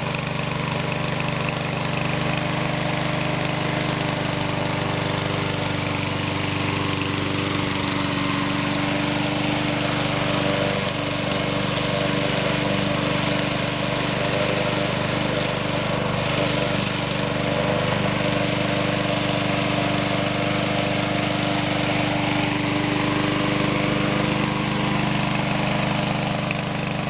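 Honda HR195 lawn mower's single-cylinder engine idling steadily after a cold start, running smoothly once the carburetor's clogged jet was cleaned.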